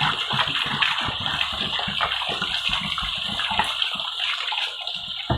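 Water sloshing and splashing in a plastic jerrycan as it is rinsed, with irregular gurgling pulses over the steady rush of running spring water.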